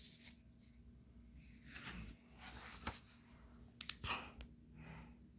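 Faint clicks and soft rustling from a book being handled, with two sharp clicks about four seconds in.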